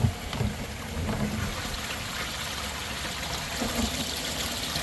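Water falling steadily from a koi pond's Bakki shower filter, trickling and splashing down into the pond's snorkel.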